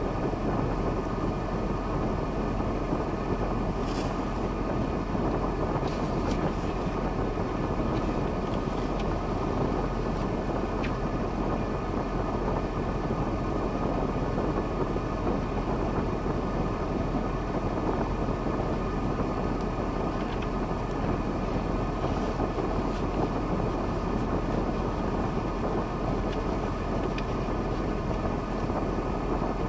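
KAMAZ timber truck's diesel engine running steadily, with a dense, even rumble and a few faint clicks.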